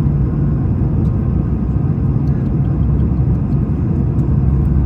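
Airbus A220-300's geared turbofan engines heard as a steady low rumble.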